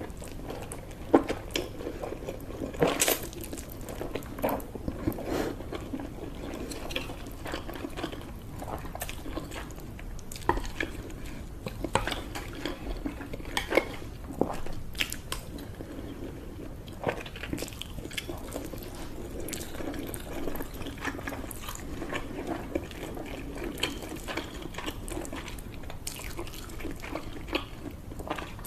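Close-miked eating: irregular wet chewing and biting sounds, with scattered sharp mouth clicks and smacks.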